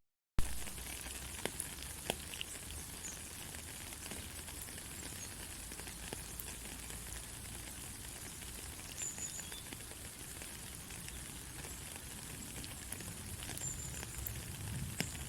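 Steady rain falling, an even hiss with scattered small drop ticks. Right at the start the sound drops out for a split second and comes back with a sharp click.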